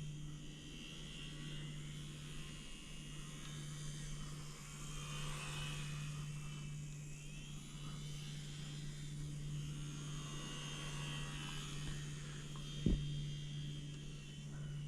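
Faint whine of a small electric RC plane's motor and propeller in flight, drifting up and down in pitch as it flies around, over a steady low hum. A single short knock comes near the end.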